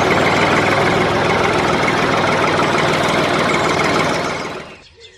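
Small electric motor of a DIY miniature tractor model running steadily with a dense buzzing whirr, then winding down and stopping about four and a half seconds in.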